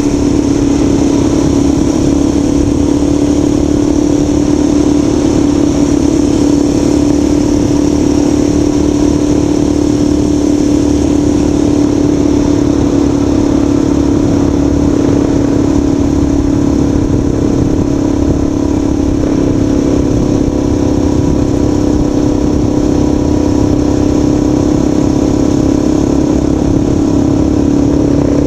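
Motorcycle engine running at a steady cruising speed, its pitch held constant, with heavy wind rumble on the microphone.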